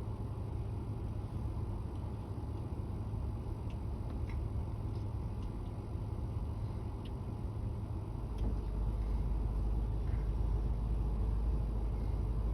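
Fire department ladder truck's engine running with a steady low rumble, which grows deeper and louder about eight seconds in, with a few faint ticks over it.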